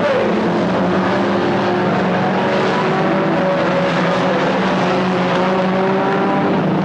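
Several stock car engines running together at racing speed, a loud, steady drone of overlapping engine tones, with one car's pitch dropping right at the start as it goes by.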